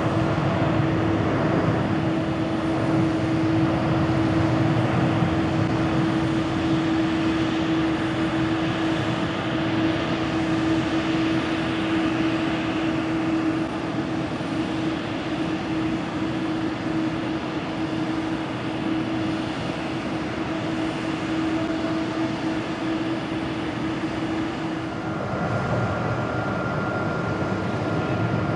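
Boeing 787-9 airliner's Rolls-Royce Trent 1000 turbofans running at takeoff thrust: a steady dense rush with a humming tone. About 25 seconds in the sound changes to another airliner's jet engines, with a higher steady whine.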